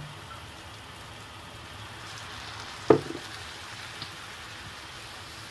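Lamb offal sizzling steadily in a frying pan, with one sharp knock about three seconds in.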